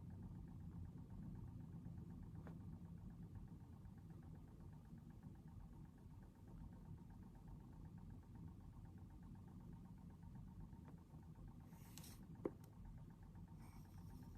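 Near silence: quiet room tone with a steady low hum. One sharp click comes about twelve seconds in, with faint brief rustles just before and after it.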